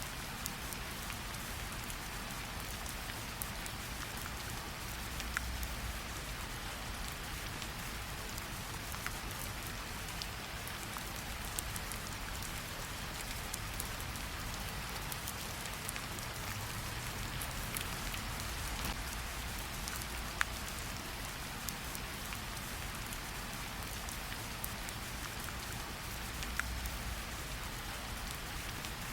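Steady rainfall, an even hiss of rain with scattered single drops ticking sharply over it.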